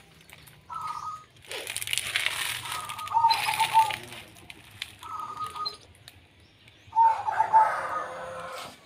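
Birds calling outdoors: short calls repeated about every two seconds, with bursts of rustling noise between them.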